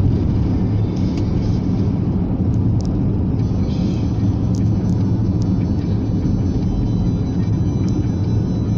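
Steady low rumble of a car driving, heard from inside the cabin, with a few light rattles as it goes over the broken surface of a road under repair.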